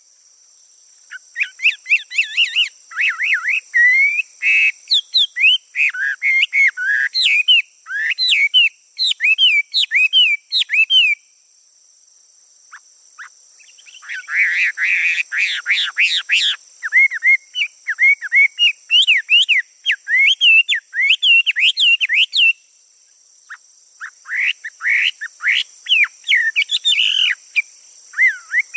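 Male songbird singing in long runs of fast, varied chirps and whistles, with short breaks about eleven and twenty-two seconds in.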